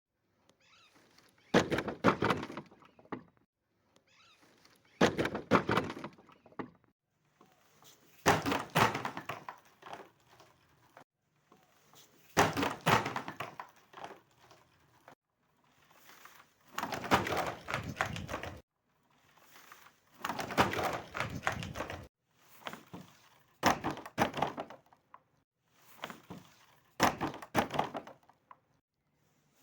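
Objects being crushed and broken in eight separate bursts about three to four seconds apart, each a quick cluster of cracks and crunches.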